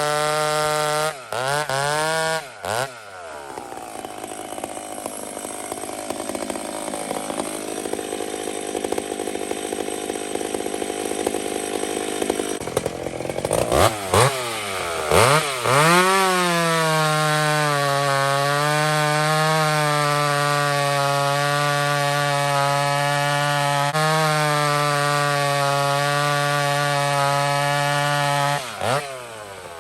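Two-stroke chainsaw bucking firewood. It holds a high rev, drops and swoops back up a few times near the start, runs quieter and rougher through a long middle stretch, then holds a steady high rev again until a couple of quick drops near the end.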